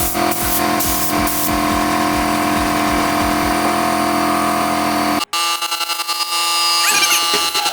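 Air compressor running with a steady hum and a regular low pulse about three times a second, while a paint spray gun hisses in a few short bursts in the first second and a half. The sound cuts off abruptly a little after five seconds in and gives way to a different steady hum.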